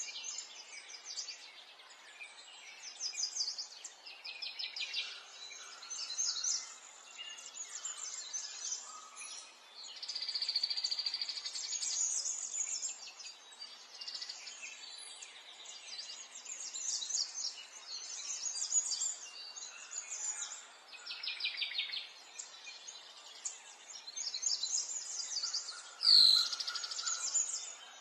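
Small songbirds chirping and trilling, many short calls one after another, with a loud sharp chirp and a knock about two seconds before the end.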